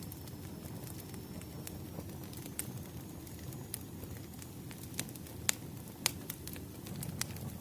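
Wood fire crackling: a steady low rumble of burning logs with irregular sharp pops and snaps, the loudest about five and a half seconds in.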